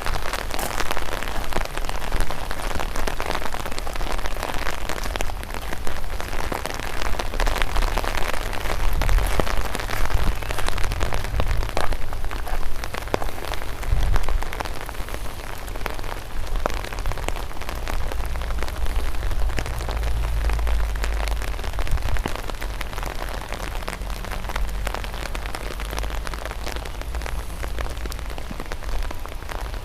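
Rain falling, with many separate drops heard as small close ticks over a steady hiss, and a low rumble that swells a few times.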